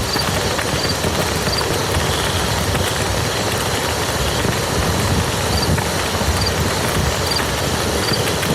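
Steady rain falling on a muddy field, a dense, even patter of drops.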